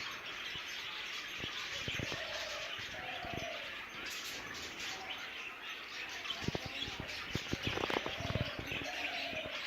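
A budgerigar colony chattering: many parakeets warbling and chirping at once, with scattered sharp clicks and wing flutters.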